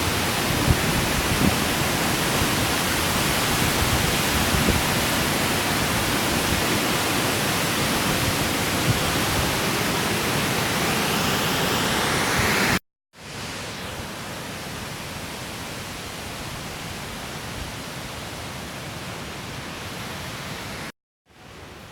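Waterfall, a steady rush of falling water. It cuts out abruptly about 13 seconds in and comes back noticeably quieter, then breaks off briefly again near the end.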